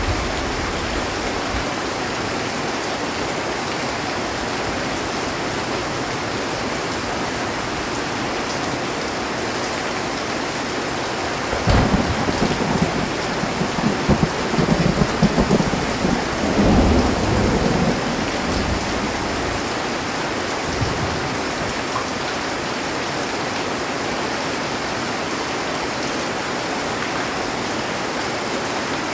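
Heavy rain drumming steadily on a metal roof. About twelve seconds in, a crack of thunder breaks out and rumbles on in rolling bursts for about six seconds before the rain alone carries on.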